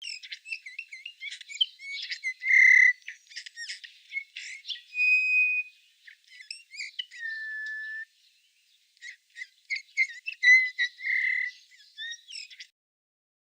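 A songbird singing a long, varied song of quick chirps, trills and clear whistled notes, with a short pause about two-thirds through.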